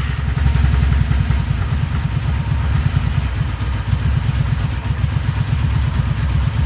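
Honda Magna VF750C's V4 engine idling cold on full choke just after starting, a steady pulsing exhaust note. Its four carburetors are freshly rebuilt but not yet synchronized.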